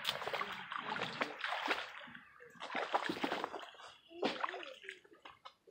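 Water splashing and sloshing in short irregular bursts, mixed with sharp knocks, three times.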